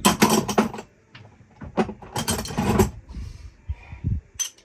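Metal tools and parts clattering and clanking in two bursts of rapid knocks, then a few lone knocks and a sharp click near the end.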